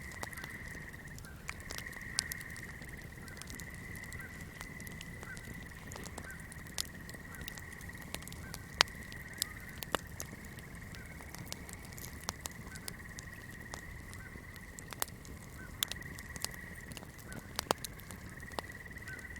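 Swamp chorus: a steady high-pitched trilling drone with faint repeated chirps beneath it, dropping out briefly twice, over irregular sharp crackles and pops from a burning candle.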